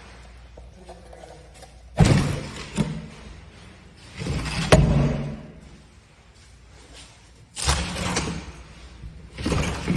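A sliding glass panel run along its track and bumping to a stop, four times in a row: a rolling rumble ending in a thud each time.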